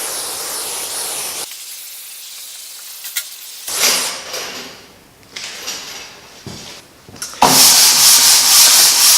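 Hissing, scrubbing noises in several stretches, with a short burst about four seconds in. The loudest is a steady hiss lasting about three seconds near the end.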